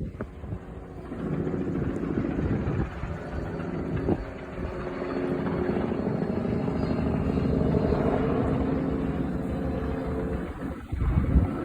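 Steady engine drone that swells to its loudest about eight seconds in and then fades. A single thud comes about four seconds in, and deep booms near the end.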